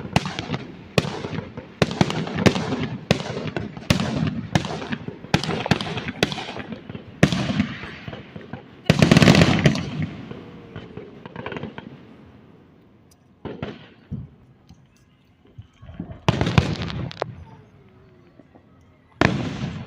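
Fireworks exploding: a rapid string of sharp bangs, several a second, for the first nine seconds, ending in one big, loudest burst that rumbles away, then a few scattered booms.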